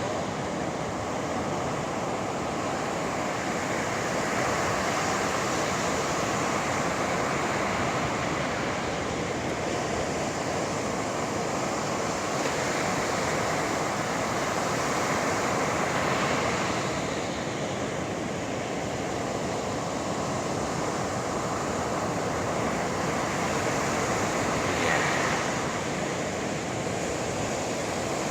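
Sea waves breaking and washing onto the shore: a steady rush of surf that swells and eases several times.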